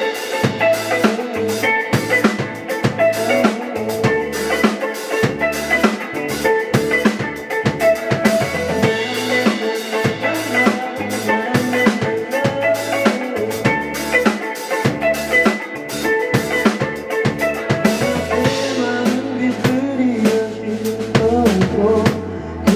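Indie rock band playing an instrumental passage live, without vocals: a drum kit with steady kick, snare and rimshot hits drives it over bass and sustained pitched instruments.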